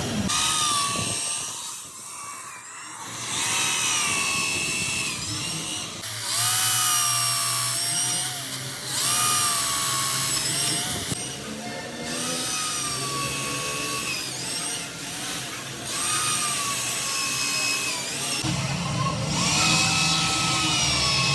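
Handheld electric power tool running in spells of a few seconds. Its whine dips and recovers as it is pressed into the work.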